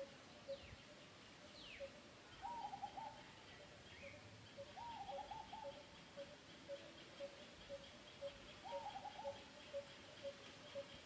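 Faint birdsong outdoors: a low note repeated steadily about twice a second, with three short bouts of quick warbling notes and a couple of falling whistles in the first two seconds, and a fast high pulsing call joining about four seconds in.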